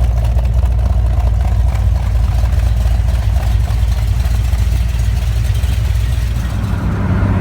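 1972 Chevrolet Corvette LS5 454 big-block V8 running steadily with a deep, even rumble, which changes character near the end.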